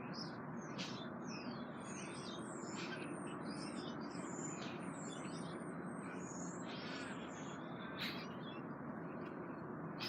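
Small birds chirping, many short rising and falling calls one after another, over a steady background noise. A single sharp click sounds about eight seconds in.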